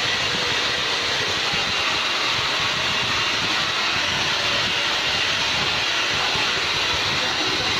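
Hair dryer running steadily, a constant airy rush of blown air and fan noise.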